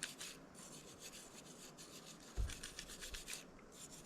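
Hand scrubbing or scraping on metal with a brush or abrasive: a faint, scratchy rasping in quick repeated strokes.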